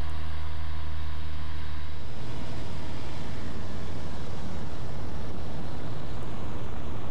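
A VL3 microlight's engine running, heard from inside the cockpit during takeoff: a steady hum for about two seconds, then a rougher, noisier drone at the same loudness.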